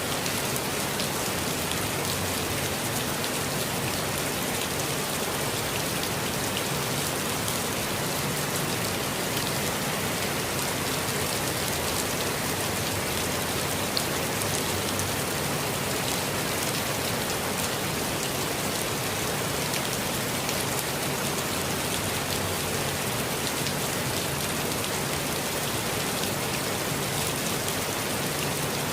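Steady rain falling on foliage and the ground, a constant hiss with many small drop patters. There is one slightly sharper drop about halfway through.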